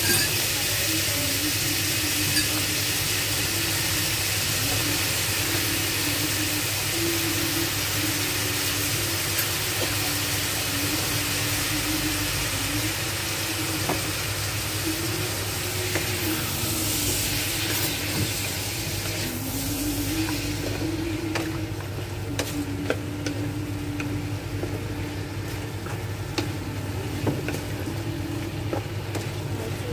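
Cubed potatoes and chillies frying in oil in a wok, sizzling, with a wooden spatula scraping and clicking against the pan as they are stirred. The sizzle thins out about twenty seconds in.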